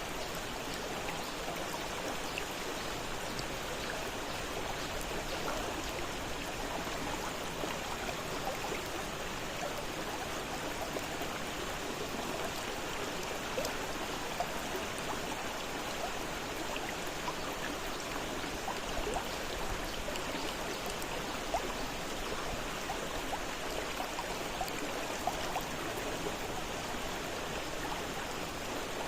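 River water flowing fast over rocks: a steady rushing with small splashes and gurgles.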